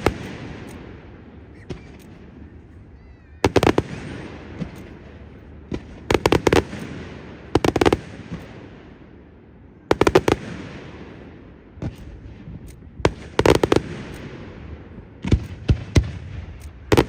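Aerial firework shells bursting in loud bangs every few seconds, some single and some in rapid clusters of several. Each burst is followed by a rolling echo that dies away.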